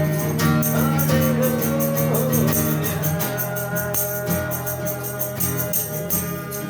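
Worship-song accompaniment: sustained electronic-organ or keyboard chords with a steady jingling tambourine rhythm. A wavering sung or held note comes in over it about a second in.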